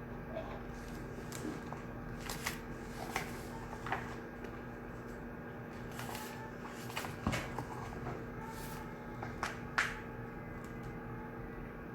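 Shared study room ambience: a steady electrical or ventilation hum under scattered short rustles and light clicks from paper and stationery being handled at desks, a few louder ones about seven and ten seconds in.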